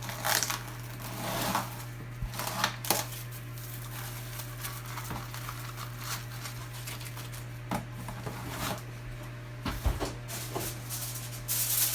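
Irregular crinkling and rustling of kitchen wrap being pulled out and pressed over a lasagna dish, over a steady low hum.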